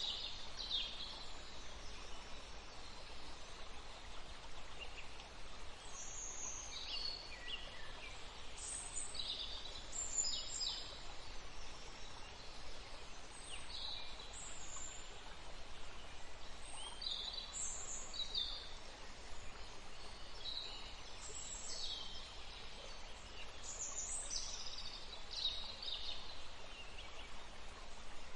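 Steady rush of running water, with birds giving short, high calls over it every second or two.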